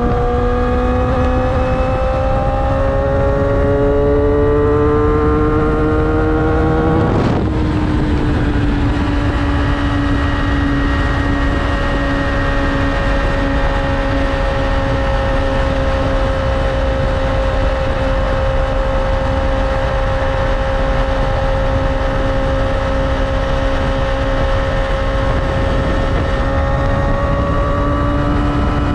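Yamaha R6's inline-four engine under way, pulling up in pitch for about seven seconds, then a brief sharp crack, after which it settles into a steady cruise that drifts slightly lower. The pitch picks up a little again near the end. Wind and road rush run underneath.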